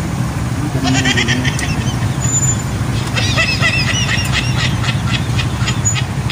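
Motorcycle engine idling in stopped city traffic. A high, warbling squeal from an unseen source sounds twice, about a second in and again for about two seconds from the middle.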